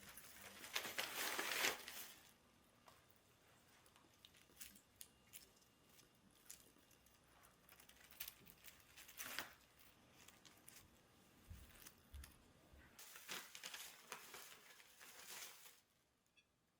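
Crinkling, rustling handling noises with scattered light clicks and taps. The loudest rustle comes in the first two seconds, with further bursts near the middle and toward the end.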